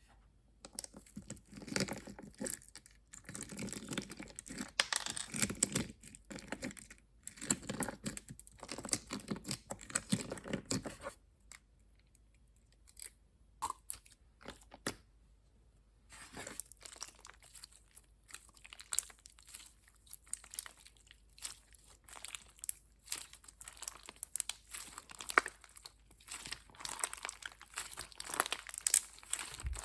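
Slime being squeezed, poked and stretched by hand, making dense crackling, crunchy clicks in spells, with a pause of about five seconds near the middle.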